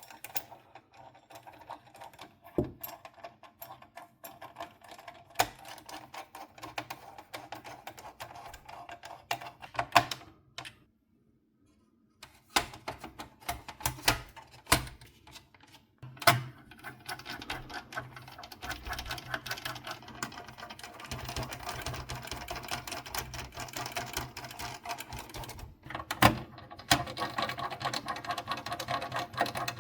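Small clicks, taps and light rattling of plastic and metal parts being handled and worked with hand tools on a games console, with a few louder knocks.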